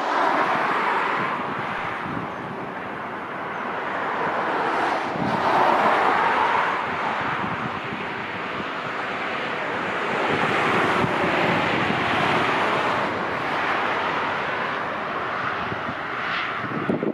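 Strong gusty wind rushing over the microphone, swelling and easing every few seconds.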